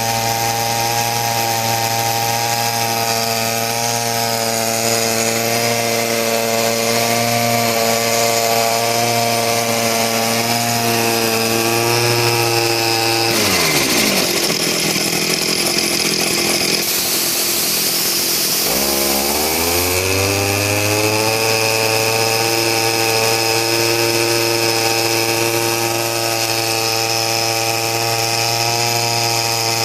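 Small engine-driven air compressor running steadily. About thirteen seconds in the engine speed drops sharply. A hiss follows a few seconds later, and the engine then revs back up to its steady running speed.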